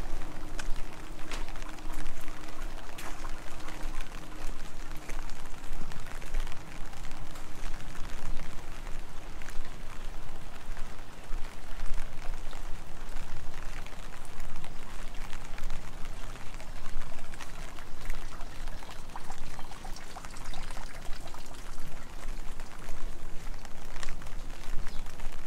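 Heavy rain falling: a steady hiss with many sharp, close drop taps throughout.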